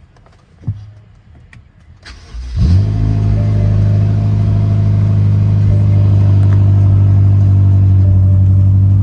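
2012 BMW X5 M's twin-turbo V8 starting from cold: after a single click, it cranks briefly and catches about two and a half seconds in, flares up, then settles into a steady cold idle.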